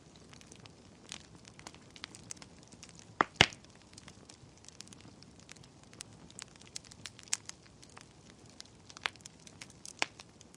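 Wood fire crackling in a fireplace: scattered sharp snaps and pops over a soft low rumble, with one loud pop about three seconds in.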